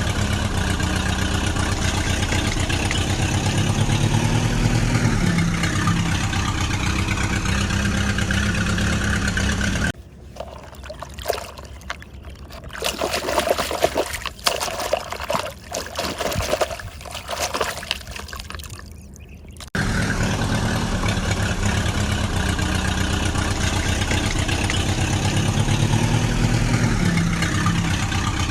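Steady vehicle engine sound with a pattern that repeats. About ten seconds in it stops suddenly, giving way to quieter water trickling and pouring with small clicks and splashes. The engine sound comes back suddenly about ten seconds later.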